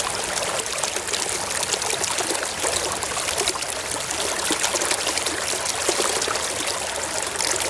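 Steady running, splashing water washing mud off a small toy vehicle; it starts and stops abruptly.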